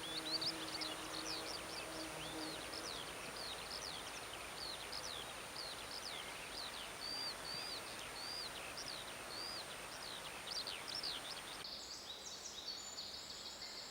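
Wild songbirds singing: a run of short, high, sweeping whistled notes, about two a second, over a hiss of forest ambience, with the background changing abruptly near the end.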